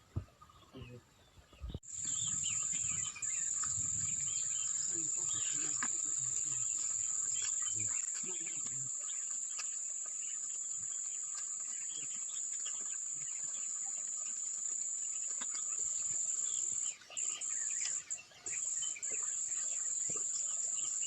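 Insects shrilling in a steady, high, continuous drone that starts abruptly about two seconds in and falters briefly a few times near the end.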